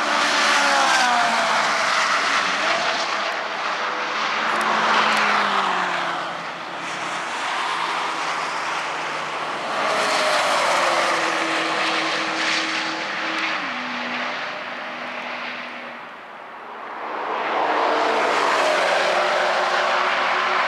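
Historic racing cars passing at speed on the circuit, several passes in turn, each engine note swelling and then falling in pitch as the car goes by, with a step down in pitch partway through as a gear changes.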